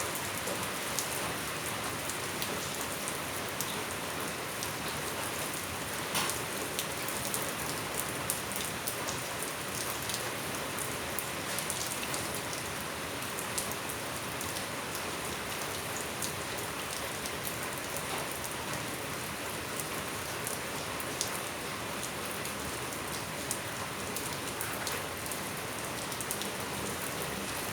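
Steady rain falling and pattering on surfaces, with scattered sharper drips through it.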